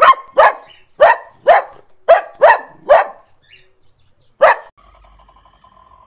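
Small dog barking: seven sharp barks in quick succession, then one more after a pause of about a second and a half.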